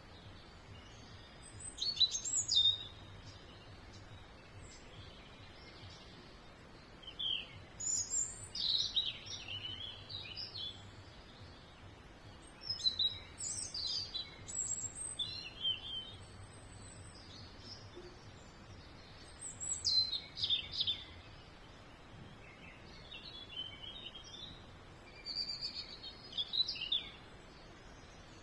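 A songbird singing short phrases of high chirps and trills, with pauses of a few seconds between them, over faint steady background noise.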